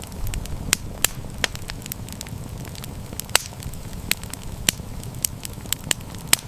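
Wood fire crackling: irregular sharp pops and snaps, several a second, over a steady low rumble of the flames. The loudest pop comes about halfway through.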